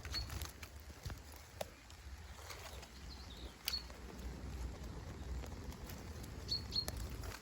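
Chaffinch giving a few short, high calls: once near the start, once midway and twice in quick succession near the end. Scattered faint clicks and rustles over a low rumble.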